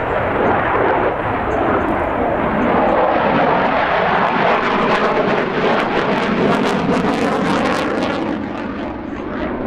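The twin Klimov RD-33 turbofans of a MiG-29 fighter in display flight: loud jet noise whose tone sweeps slowly as the aircraft moves, with a crackling edge from about five to eight seconds in.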